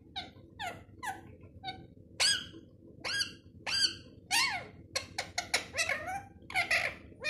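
Pet parrot calling: a rapid series of short squawks and chirps, each rising and falling in pitch, coming faster and louder in the second half.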